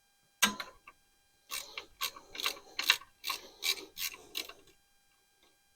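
Mechanical clicking: a single click, then a run of about nine short clicking strokes in quick succession, each a cluster of clicks.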